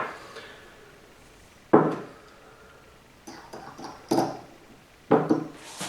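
A few knocks and clatters of hard tools or parts being handled and set down on a work surface: one sharp knock about two seconds in, a cluster of smaller knocks past the middle, and another near the end.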